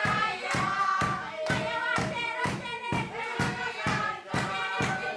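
A group of voices singing together in chorus over a steady beat of strikes, about two a second.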